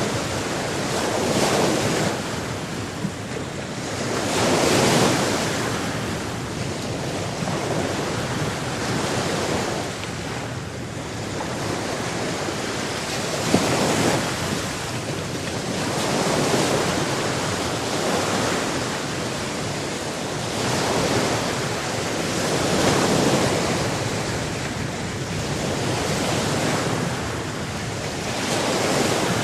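Sea waves washing onto a shore, a continuous rushing that swells and falls back every few seconds.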